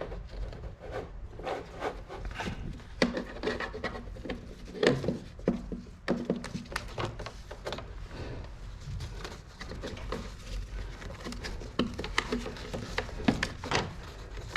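Handling noise from an air conditioner indoor unit and its bundled piping being worked into place: irregular clicks, knocks and rubbing, a few sharper knocks standing out.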